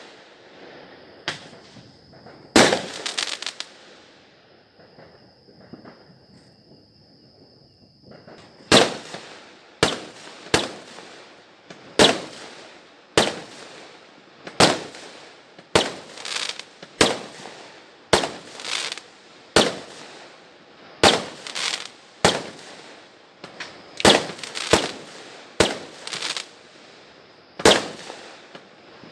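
Fireworks exploding: a few sharp bangs, a pause of a few seconds with a faint steady high tone, then a quick run of bangs about one a second, each followed by a short crackle.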